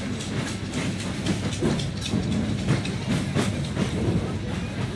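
Railway train rolling past, a low rumble with frequent sharp clicks as its wheels cross rail joints.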